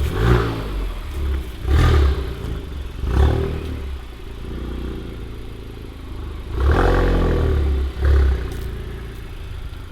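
Honda Civic Type R's turbocharged 2.0-litre four-cylinder revved in a series of throttle blips, with one longer rev about two-thirds of the way through, through a catless downpipe and Remus valved cat-back exhaust with its valves closed; a turbo whistle is heard on the revs.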